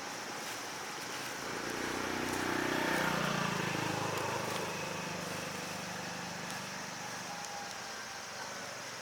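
A motor vehicle engine passing by, growing louder for a couple of seconds and then fading, its pitch dropping as it goes past.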